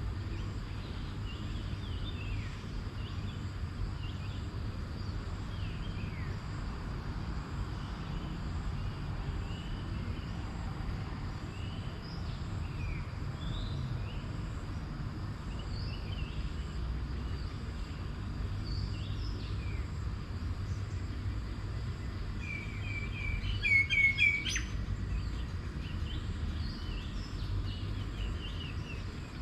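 Several birds chirping and calling with short, scattered notes over a steady low rumble; one bird gives a louder run of rapid notes about three-quarters of the way through.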